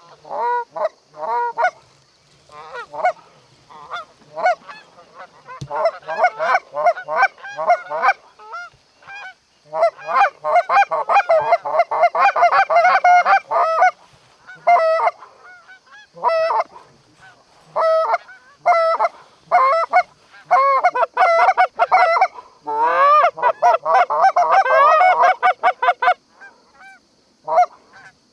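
Canada goose honking and clucking in fast runs: scattered single honks, with two long stretches of dense, overlapping calling in the middle and near the end.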